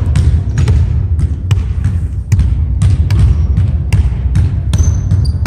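Rapid, irregular knocks or thumps, several a second, over a loud, steady low rumble.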